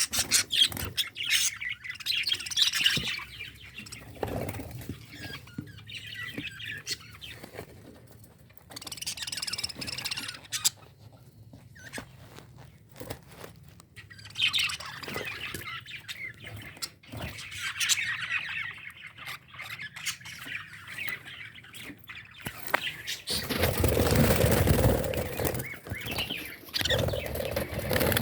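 Lovebirds chirping and squawking in bursts. A louder burst of noise comes about three-quarters of the way through.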